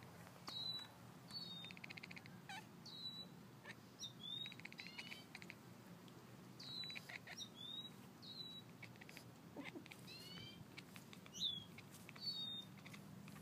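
A kitten making short high chirps about once a second, mixed with several quick runs of rapid clicking chatter.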